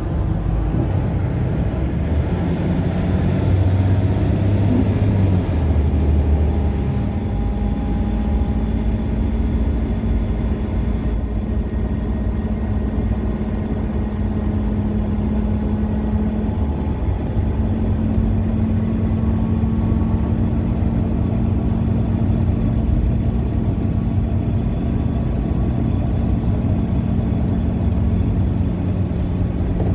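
Bus engine running, heard from inside the cabin as a steady low drone; its pitch shifts a few times in the first several seconds, then holds steady.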